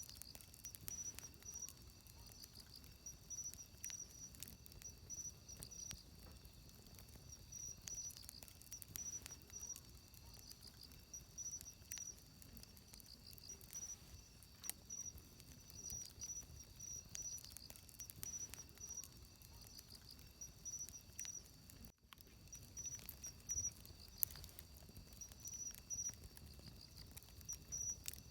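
Wood fire crackling with scattered sharp pops, one louder pop near the end. Behind it, insects chirp in repeated pulsing high trills.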